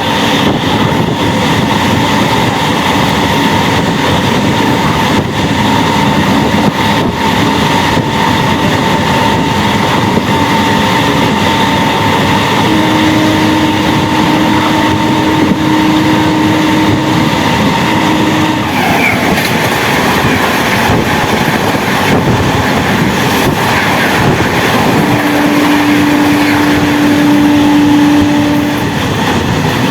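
Electric MEMU train running at speed: a loud, steady noise of wheels on the rails, with a drawn-out pitched tone about halfway through and another near the end.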